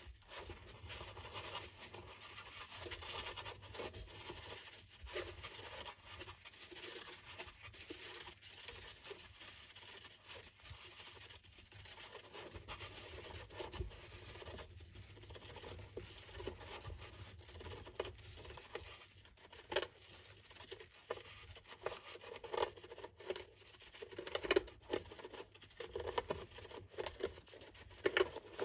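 Small hamster scratching and scrabbling, a steady rustle of claws with a run of sharper clicks and taps in the last several seconds.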